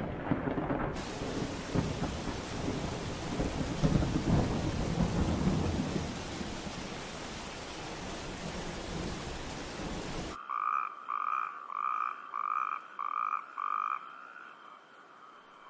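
Steady rain with low rumbles of thunder, cut off suddenly about ten seconds in. Then an animal calls six times in an evenly spaced series of short, clear notes.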